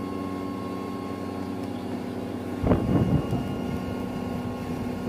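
Steady hum of a Choshi Electric Railway 2000 series railcar's onboard equipment, heard inside the car. About two and a half seconds in comes a brief loud rumbling bump.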